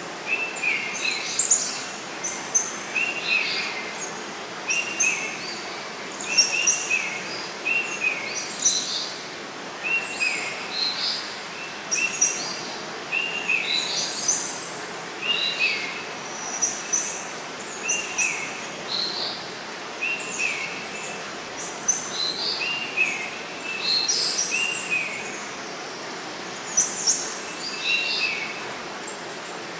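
Birds calling over and over in short phrases of a few quick, high notes, about every one to two seconds, over a steady rush of water.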